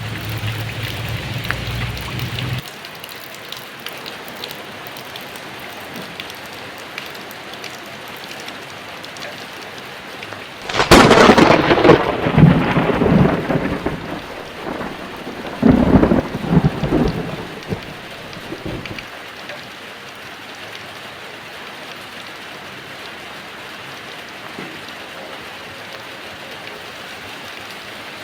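Steady heavy rain with thunder. About eleven seconds in a sharp thunderclap breaks and rolls on for a few seconds, and a second clap follows about sixteen seconds in, rumbling away by about nineteen seconds. A low rumble under the rain at the start cuts off abruptly after about two and a half seconds.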